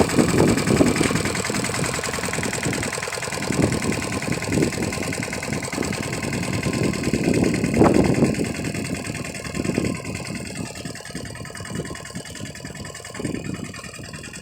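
Lombardini diesel engine of a walk-behind tractor running under load, its note swelling louder near the start and again about eight seconds in, then fading gradually toward the end.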